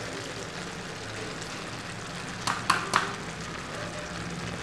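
Sliced mushrooms frying in oil in a kadai, a steady quiet sizzle, with three short sharp knocks a little past halfway through as the ground pepper powder is added.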